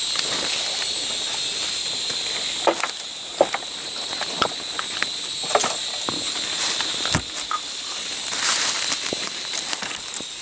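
Steady high-pitched insect drone, with irregular sharp clicks and snaps over it.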